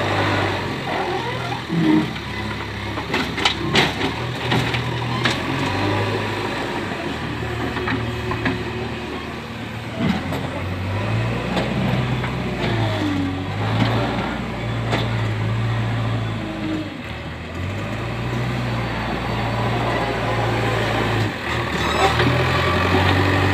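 JCB 3DX backhoe loader's diesel engine running, its pitch stepping up and down every few seconds as it works, with scattered knocks and clatter, most of them a few seconds in.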